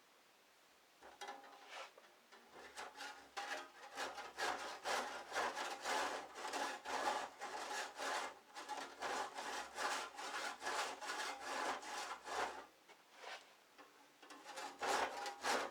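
Handsaw cutting through a garage door panel in steady back-and-forth strokes, about two a second, starting about a second in and stopping briefly near the end before resuming.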